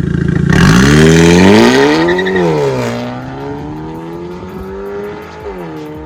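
Hyundai Elantra Sport's 1.6-litre turbo four-cylinder, breathing through an MS-R valved full exhaust, accelerating under load. The note rises and drops sharply at an upshift about two seconds in, climbs again and drops at another shift near the end. It is loudest in the first couple of seconds.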